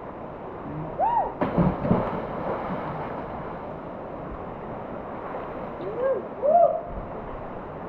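People whooping with short rising-and-falling calls as someone jumps into the water, with a sudden splash about a second and a half in. Rushing water from the waterfall and pool runs steadily underneath.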